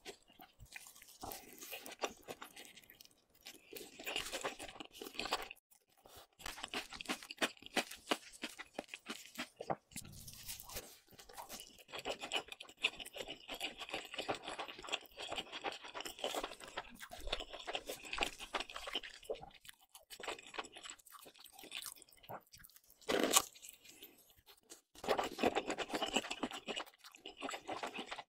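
Close-miked chewing with crisp crunches and wet mouth sounds, in bouts with short pauses between bites; one bite a little over three-quarters of the way through is louder than the rest.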